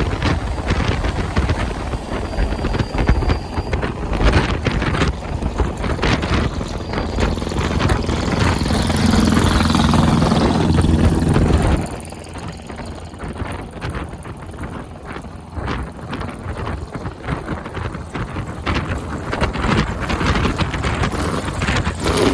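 A vehicle engine running, with wind buffeting the microphone. The sound builds and then drops off suddenly about twelve seconds in.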